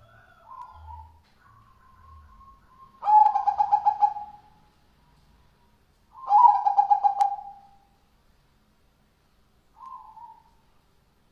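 Zebra doves (perkutut) cooing: soft short coos, then two loud rolling trilled coo phrases a few seconds apart, and a last soft coo near the end. A sharp click sounds during the second phrase.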